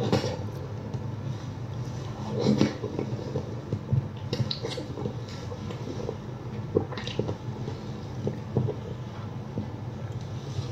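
A person chewing food, with scattered small wet mouth clicks and a few louder smacking sounds, over a steady low hum.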